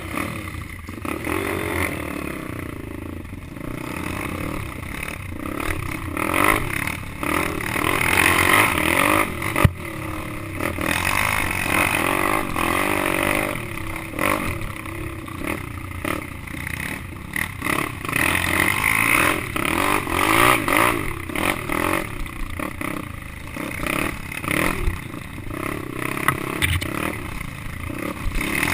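Pit bike's small single-cylinder engine being ridden hard, revving up and falling back over and over as the rider works through the gears and corners, heard from a helmet-mounted camera.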